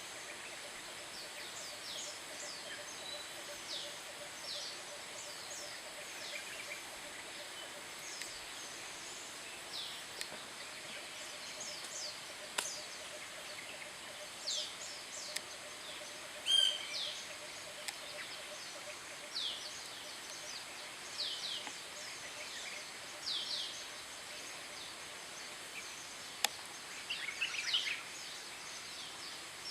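Forest ambience with many short, falling whistled bird calls repeating every second or two, a cluster of them near the end, and a couple of sharp taps.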